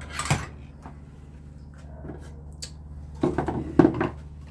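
A sharp knock, then near the end a short run of clattering knocks, over a steady low hum.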